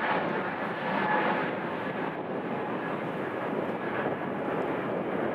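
Airliner engines running, a steady rushing noise with a faint high whine through it.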